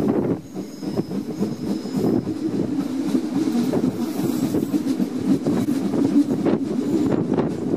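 Rhaetian Railway train on the Bernina Railway running past, its wheels rumbling steadily and clicking over the rails. A faint high wheel squeal comes and goes near the start.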